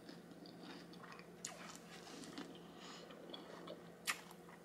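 A person quietly chewing a mouthful of food with closed lips, with small wet clicks and one sharper click about four seconds in.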